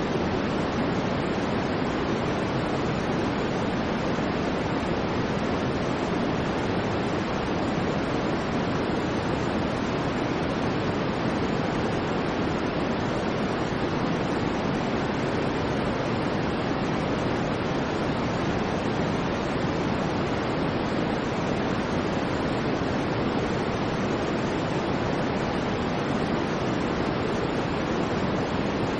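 Continuous white noise: a steady, unchanging rush with most of its weight in the lower range and no other sound.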